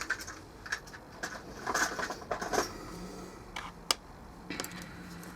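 Scattered small clicks, taps and short scrapes of hand tools being handled and worked against the seam of a plastic speaker casing while prying it open.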